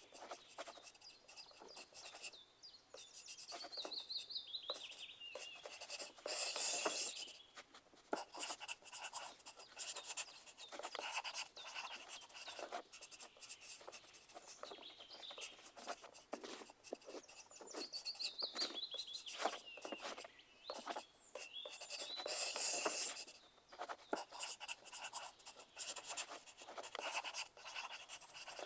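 Pencils scratching on paper in quick, irregular strokes, with two louder, longer stretches of rubbing. Twice, a bird calls faintly in the background with a short falling series of high notes.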